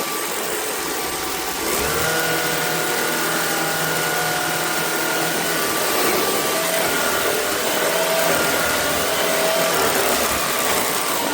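Shark Clean & Empty cordless vacuum running with a steady motor whine and airflow noise. About two seconds in it gets louder and a deeper hum with steady tones joins in, which falls away near the end.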